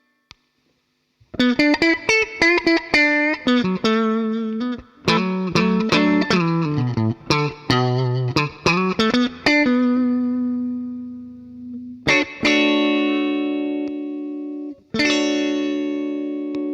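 Electric guitar played through a DemonFX Jan Ray overdrive pedal and a NUX Amp Academy amp modeller, with lightly driven tone. After a brief pause it plays quick single-note phrases, then a held note that dies away, then two struck chords a few seconds apart, each left to ring out.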